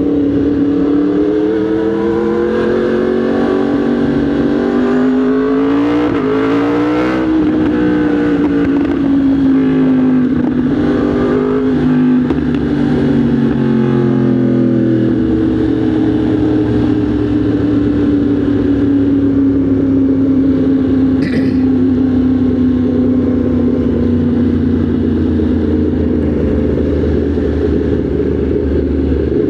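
Motorcycle engine running under way; its note climbs about six seconds in, dips and rises again a few seconds later, then slowly falls away.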